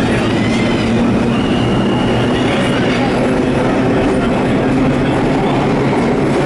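Vintage R1–R9 series 'Arnine' subway cars running on the track with a steady loud rumble. A faint wheel squeal comes in a little over a second in and fades by about the middle.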